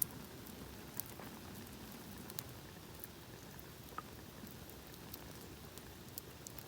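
Small wood campfire burning quietly: scattered sharp crackles and ticks over a faint steady hiss.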